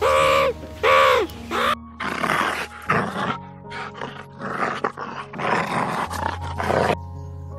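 Two short pitched calls from a meerkat, each dropping in pitch at its end, then a spaniel making a run of rough, breathy bursts, over background music.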